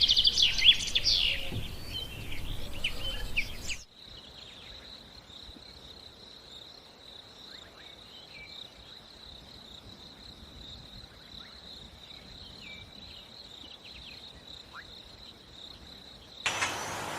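Birds chirping with rapid high trills for the first few seconds, then a sudden change to a steady high-pitched insect trill with faint occasional bird chirps over it. Near the end it cuts to louder, noisier outdoor sound.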